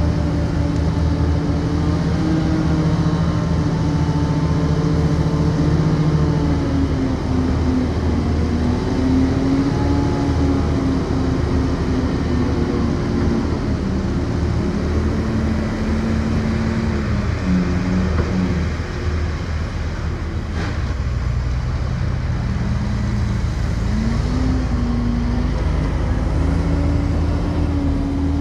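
Diesel engine of heavy earthmoving machinery running hard, its pitch sagging and recovering several times as the load changes. There is one faint click about twenty seconds in.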